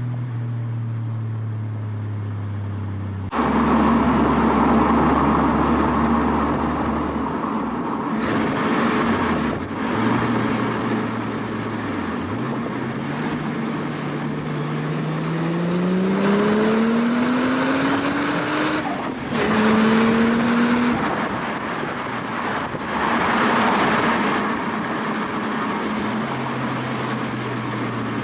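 Toyota JZX100 Chaser's inline-six heard through its Fujitsubo Legalis R cat-back exhaust while driving: a steady low drone, then much louder running from a few seconds in as the engine pulls, its pitch climbing through a gear, dropping at a shift and climbing again before easing back to a steady cruise. The exhaust is a quiet, two-muffler-and-resonator replacement for a droning cannon-type muffler.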